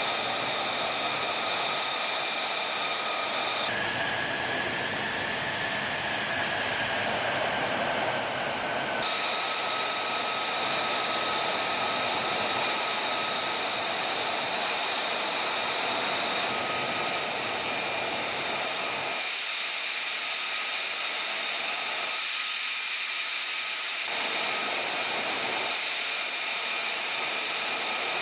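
Jet engine running with a steady rushing noise and a high turbine whine. The whine's pitch changes abruptly twice, about 4 and 9 seconds in, as between edited shots.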